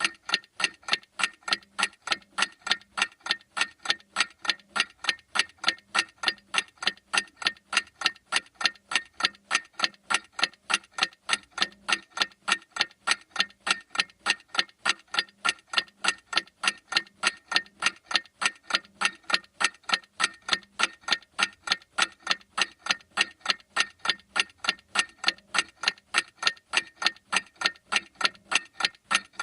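Clock ticking in a fast, perfectly even rhythm, several sharp ticks a second at a steady loudness.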